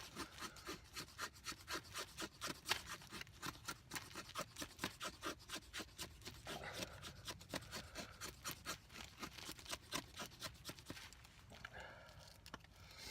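Knife scraping a wooden stick in quick, repeated strokes, about three a second, shaving off fine tinder dust for fire-lighting. The strokes ease off near the end.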